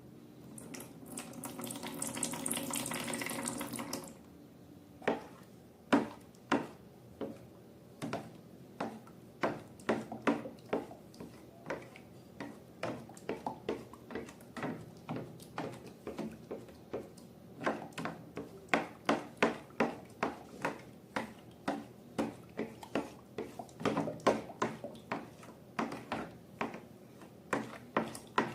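Liquid running or pouring for about three seconds, then a long series of short wet clicks and squelches, several a second, typical of slime being squeezed and kneaded by hand.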